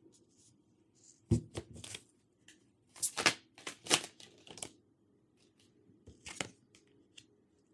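Tarot cards being handled and laid down: a series of short, sharp rustles and taps through the first five seconds, with one more about six seconds in.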